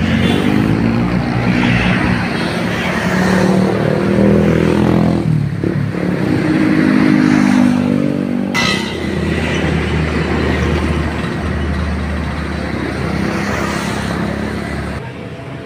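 Big diesel bus engine pulling away, its pitch rising, dipping briefly about five and a half seconds in, then rising again. A sharp click comes about eight and a half seconds in, after which the engine settles to a steadier, lower drone that fades near the end.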